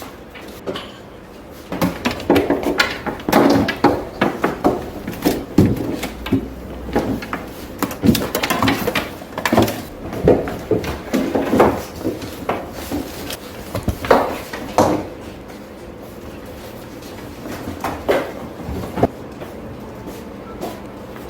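Irregular knocks, clicks and clatter of hard objects being handled, dense for the first two-thirds and then thinning to a few knocks near the end.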